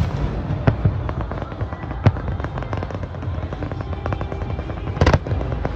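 Aerial fireworks exploding: several sharp bangs, the biggest about two seconds in and a cluster near the end, over a continuous crackle of smaller bursts and a low rumble.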